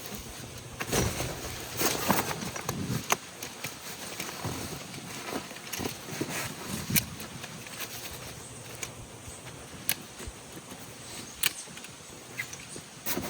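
Irregular handling sounds: scattered clicks, knocks and rustles, busiest in the first few seconds, with a few sharp ticks near the end.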